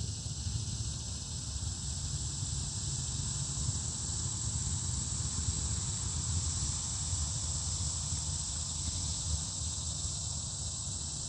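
Steady high-pitched buzz of an insect chorus in summer woodland, over a low rumble on the microphone.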